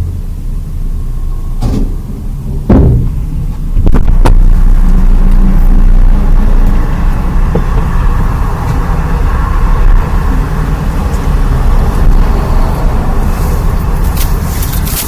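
Car's steady low rumble, getting louder about four seconds in, with a few sharp knocks in the first few seconds.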